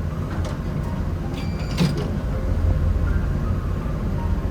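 Delivery vehicle's engine running with a steady low hum, and a sharp click a little under two seconds in.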